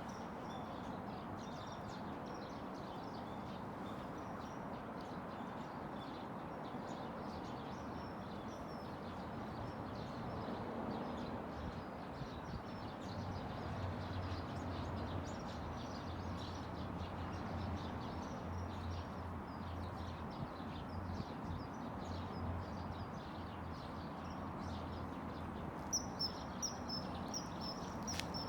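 Steady rush of flowing river water with faint, scattered small-bird chirps. Near the end comes a quick run of louder, sharp, high-pitched bird calls.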